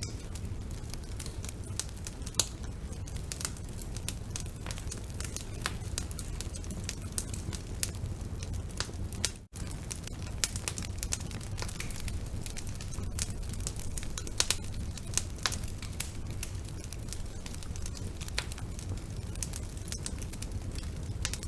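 Wood fire burning in a fireplace: a steady low rumble of flames with irregular sharp crackles and pops from the burning logs. There is a momentary drop-out about nine and a half seconds in.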